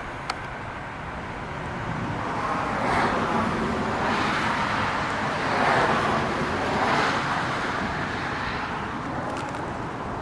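A road vehicle driving past, its tyre and engine noise swelling over a few seconds and fading away again.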